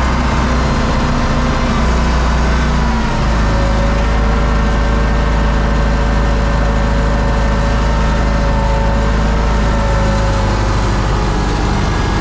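UTB U-650 tractor's four-cylinder diesel engine running steadily under load; its note shifts about three seconds in and then holds.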